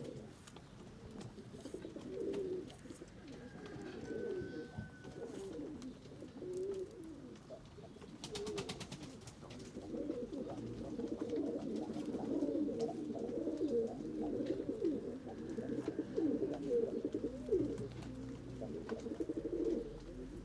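Several domestic pigeons cooing, their low warbling coos overlapping steadily and growing busier from about ten seconds in. A short run of rapid ticks comes about eight seconds in.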